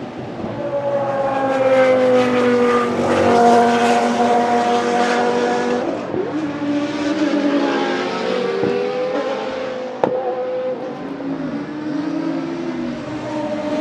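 Historic Group C racing cars passing at speed one after another, each engine note dropping in pitch as it goes by. A single sharp crack about ten seconds in.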